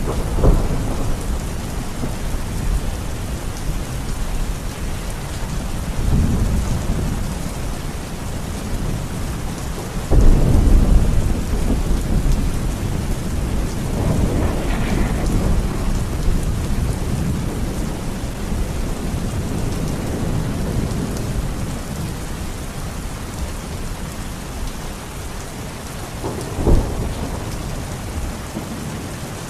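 Steady rain with thunder rumbling over it several times. The loudest peal breaks in suddenly about ten seconds in, and a short, sharper clap comes near the end.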